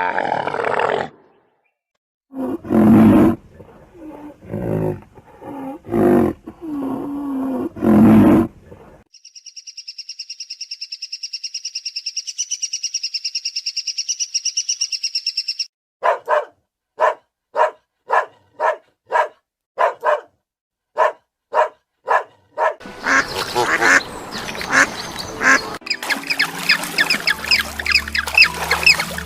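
A string of different farm bird and animal calls in turn, with ducks quacking and geese honking among them. A few loud separate calls come first, then a steady high trill for several seconds, a run of evenly spaced single calls, and a dense overlapping flock chorus near the end.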